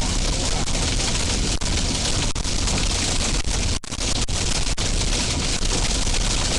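Heavy storm rain pelting down: a loud, even rush of noise, broken by a few very short dropouts.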